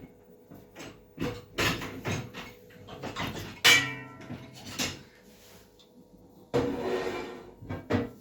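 Irregular clicks, knocks and short clatters of something being handled, with one loud sharp knock just past the middle and a longer clattering rattle about two-thirds in.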